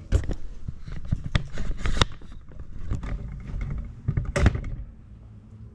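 Irregular clicks and knocks of hand tools and metal parts being handled while a small backpack blower engine is being taken apart, with the loudest knock a little past four seconds in before it quietens.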